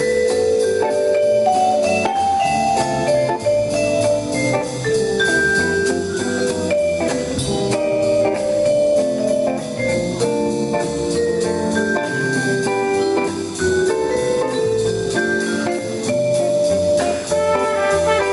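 Small jazz ensemble playing a medium-tempo tune: a melodic solo line over drum kit and a steady bass.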